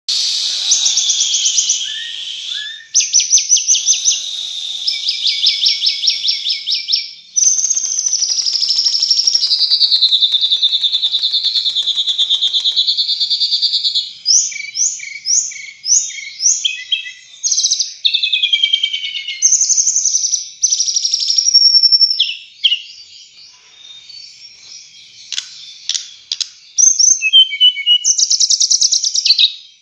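A tledekan songbird singing without pause: long, fast trills and rapid strings of repeated notes run into warbling, swooping phrases, with a short lull about three quarters of the way through.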